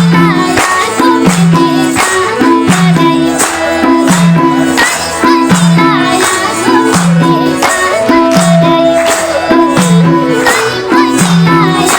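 Live Nepali folk music: a steady hand-drum rhythm with melody instruments playing over it, in an instrumental stretch without clear singing.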